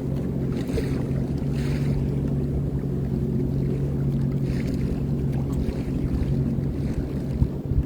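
Sea-Doo Fish Pro personal watercraft engine running steadily with a constant hum. Short patches of hiss from wind and water come and go over it.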